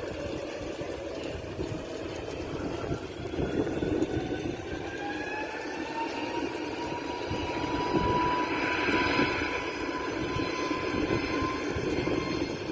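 Airbus A320neo's CFM LEAP-1A turbofan engines spooling up for takeoff. A whine slowly rises in pitch over a steady rushing engine noise and is loudest about two-thirds of the way in.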